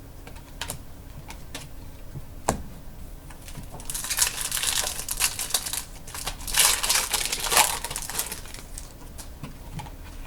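Trading cards being handled and flipped through by hand: a few light clicks, then several seconds of dry rustling and sliding of cards and packaging.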